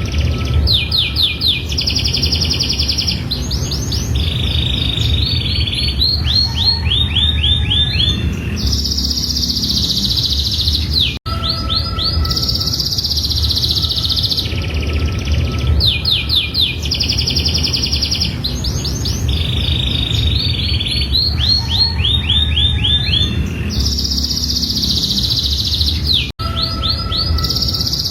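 Domestic canary singing a long, continuous song of rapid trills and buzzy rolls, over a steady low hum. The song cuts out for an instant twice, about eleven seconds in and near the end, and the same run of phrases starts over after the first break.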